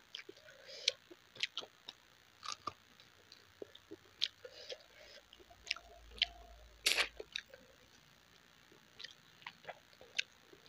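Close-up chewing of a mouthful of rice and curry: short mouth clicks and smacks at irregular intervals, the loudest about seven seconds in.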